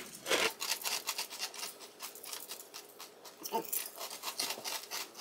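Dry chocolate almond protein cereal being chewed with the mouth closed: a quick, irregular run of crisp crunches. The pieces are hard, harder to chew through than ordinary crunchy cereal.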